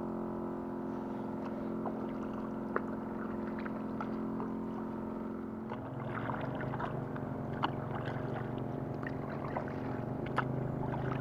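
A motorboat engine running steadily, its note shifting lower about halfway through, with scattered light clicks and knocks.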